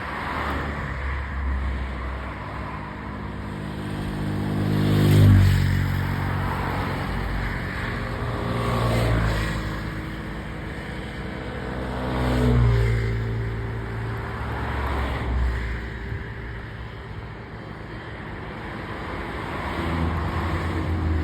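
Motor vehicle engines passing one after another, each growing louder and then dropping in pitch as it goes by, over a steady rumble of traffic.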